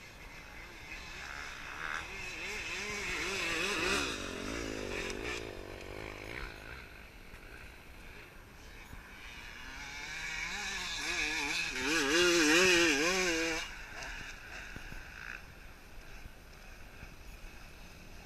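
Dirt bikes on a motocross track, engines revving up and down as they pass, with two passes. The second is louder and peaks about two-thirds of the way through.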